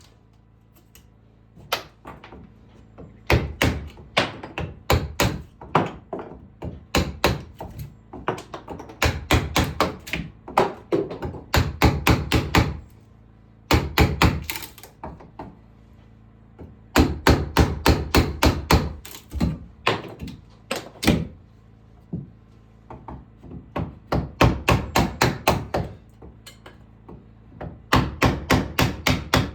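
Hammering: quick runs of sharp blows, about five a second, broken by short pauses.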